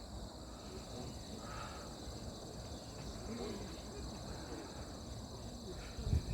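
Insects chirping steadily in a high, even, finely pulsing chorus over a low outdoor rumble, with a single dull thump near the end.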